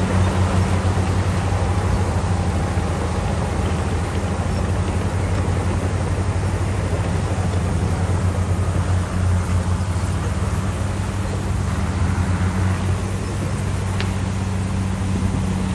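Heavy earthmoving machine's diesel engine, likely the bulldozer, running steadily with a constant low drone.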